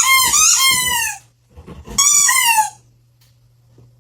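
Two high-pitched, wavering squealing cries from a pet: one lasting about a second, then a shorter one about a second later.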